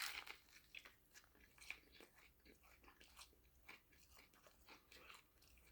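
A person chewing food close to the microphone: a louder crunchy bite right at the start, then soft, irregular chewing and mouth clicks.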